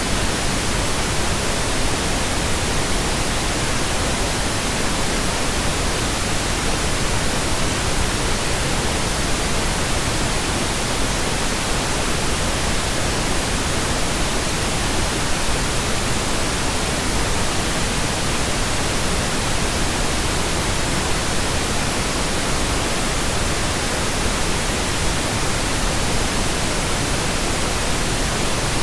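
Steady pink noise generated in Audacity: an even, unchanging hiss spread across the whole range, weighted toward the low end.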